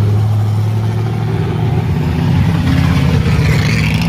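Loud hot-rod engine running at high revs. It holds steady for about a second and a half, then the revs waver up and down.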